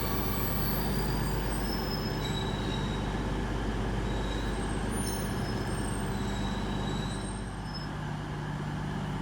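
Pair of Class 150 Sprinter diesel multiple units running at the platform, a steady diesel engine hum, with a few short high wheel squeals.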